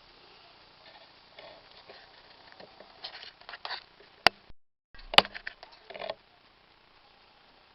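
Handling noises: scattered light taps and scrapes, with two sharp clicks about a second apart near the middle.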